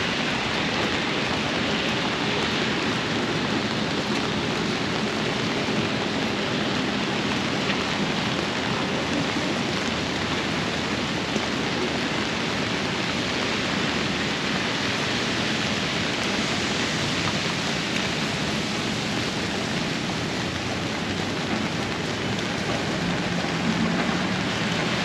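Steady downpour of rain, an even hiss that holds level throughout.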